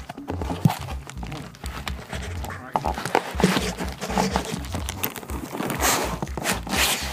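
Cardboard box and protective foam packaging rustling, scraping and knocking as a keyboard synthesizer is lifted out by hand. There are many short knocks, with louder rustling bursts near the end.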